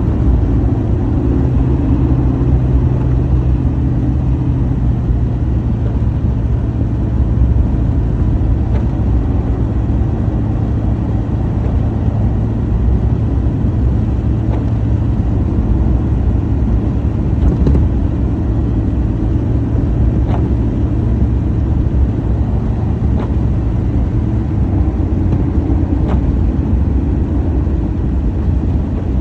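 Steady low rumble with a faint hum, unchanging throughout, with a few faint ticks.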